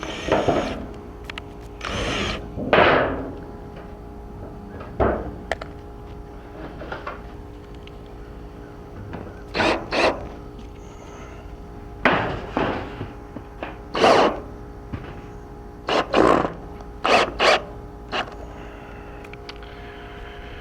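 Power drill run in repeated short bursts, driving screws through a metal wrap around a post.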